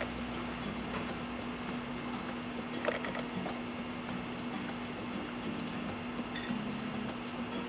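Egg-battered fish fillets sizzling in oil on an electric griddle, an even crackle with a few faint ticks.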